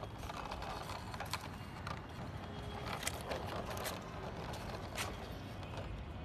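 Scattered light clicks and knocks of a plastic toy water tanker being handled.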